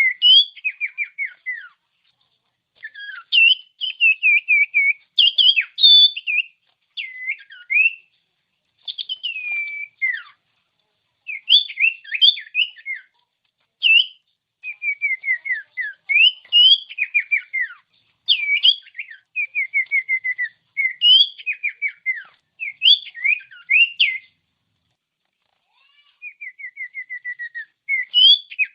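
Common iora (sirtu, cipoh) singing: repeated phrases of quick whistled notes, many of them sliding downward, in short bursts with brief pauses between them.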